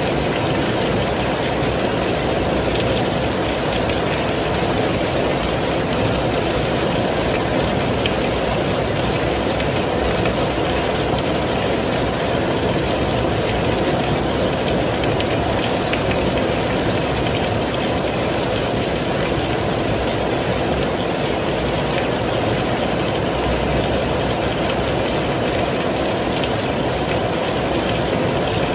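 Heavy rain falling steadily: an even, unbroken rush.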